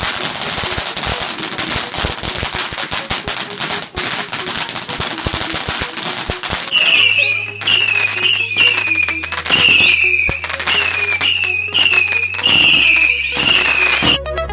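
Fireworks crackling in a dense, rapid rattle, then from about halfway a run of short falling whistles roughly once a second, over music with a steady bass line.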